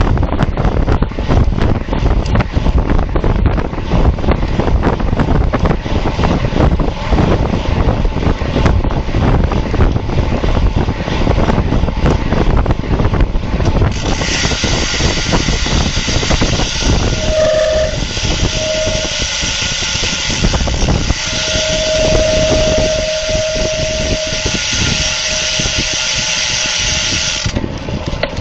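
Wind buffeting the microphone of a bike-mounted camera during a road race. About halfway through, a steady hiss joins with an on-off whistling tone, lasts some 13 seconds, then stops abruptly.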